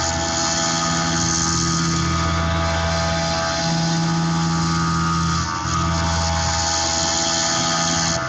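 Tormach PCNC 1100 CNC mill's spindle running with an end mill cutting a pocket in aluminium on an adaptive toolpath: a steady machine hum with a high whine over a hiss. The lower tones change a few times as the cutter's load shifts, with a brief dip about five and a half seconds in.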